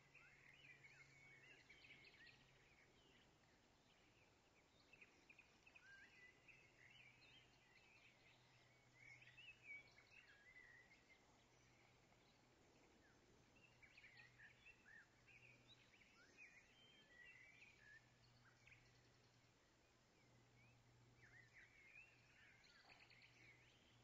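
Faint chirping of small birds: many short, quick calls, some in little clusters, over a faint low hum.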